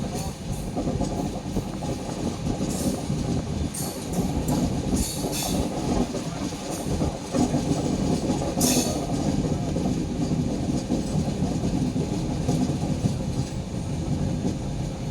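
Train running on the rails, heard from on board: a steady low rumble with wheel clatter, and a few brief high-pitched squeals about three to five seconds in and again near nine seconds.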